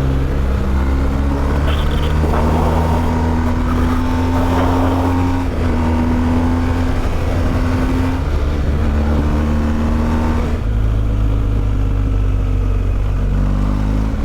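Motorcycle engine running hard on the move, its pitch rising and falling several times as the rider works the throttle and gears, over a steady rush of riding noise.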